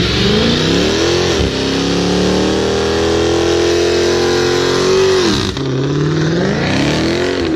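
Car engine revving hard and held at high revs during a burnout. The revs drop and climb back twice, about a second and a half in and near the end, over a steady hiss of spinning tyres.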